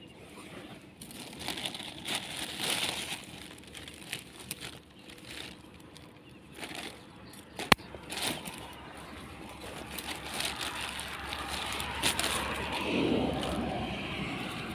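Rustling and crackling from rat traps being handled and set down, with a sharp click about eight seconds in.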